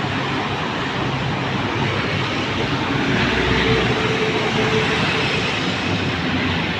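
Road traffic: steady engine and tyre noise from passing vehicles, with one vehicle passing close and louder about three to five seconds in.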